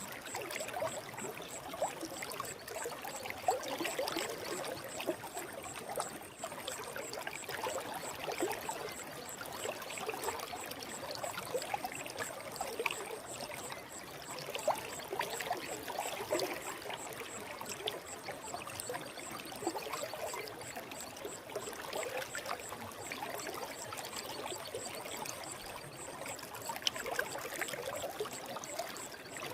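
Forest stream babbling and trickling steadily, with a dense patter of small water splashes.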